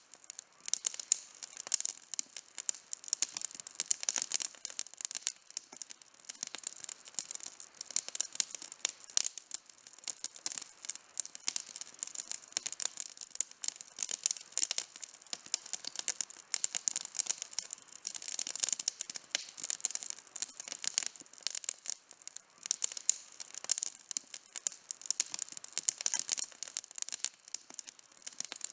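Campfire burning with dense, irregular crackling and popping of wood, many small sharp snaps every second.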